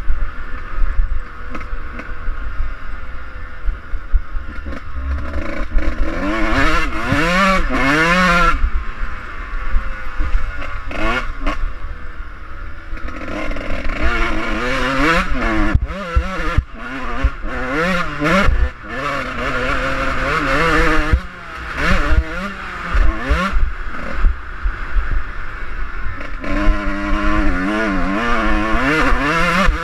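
Suzuki RM125 two-stroke single-cylinder dirt bike engine being ridden hard: the revs climb and drop again and again through the throttle and gears, over a steady low rumble.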